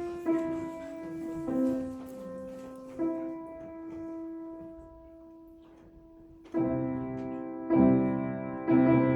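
Solo piano playing: a few held single notes that die away to quiet, then loud full chords struck from about six and a half seconds in.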